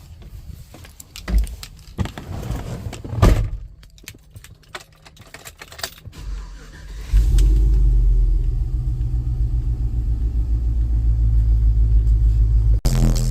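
Car audio system with Sundown ZV6 15-inch subwoofers playing loud, deep bass that starts about seven seconds in and holds as a steady, pulsing low drone; before it, scattered knocks and clicks.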